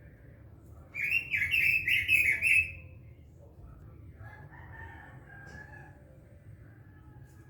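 Pekin robin (red-billed leiothrix) singing: a loud phrase of about five quick, clear notes about a second in, then softer warbling.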